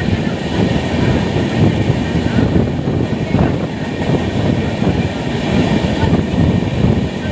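A train on the tracks close by: a steady, dense low rumble with no pauses.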